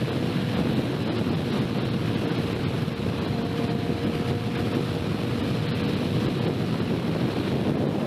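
Motorcycle riding at a steady speed, its engine holding one even note under heavy wind rush on the microphone.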